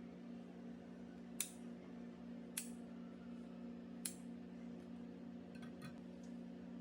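Three sharp clicks about a second and a half apart over a steady low hum, with a few fainter ticks near the end.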